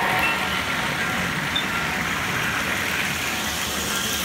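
American Flyer S gauge motorized handcar running fast along the track, its small overhauled motor and wheels making a steady mechanical clatter.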